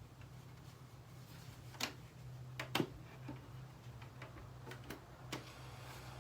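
Faint steady low hum from a switched-on boombox, with several small scattered clicks from its controls being handled as it is set to play static.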